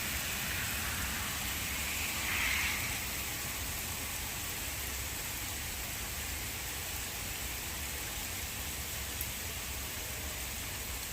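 Steady rain and tyre noise heard from inside a moving car, a low rumble under an even hiss, with a short swell of hiss about two seconds in.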